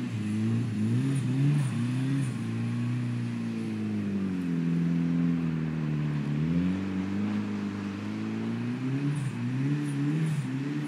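Mitsubishi Lancer Evolution V's turbocharged four-cylinder engine revving up and down as the car drifts on snow. The revs sag for a couple of seconds in the middle, then climb again with quick blips near the end.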